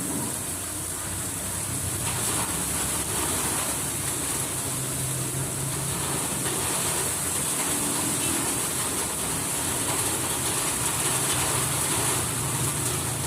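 Heavy storm rain pouring steadily, a dense even hiss.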